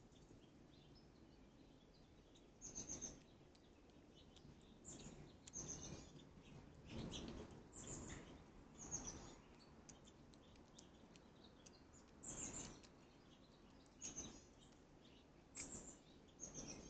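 Faint bird chirps: about nine short, high chirps coming at irregular intervals over quiet background noise.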